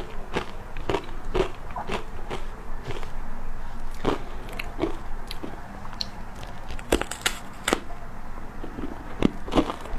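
Ice coated in matcha powder being bitten and chewed close to the microphone: irregular sharp crunches, roughly one or two a second, with a quick run of crisp bites about seven seconds in.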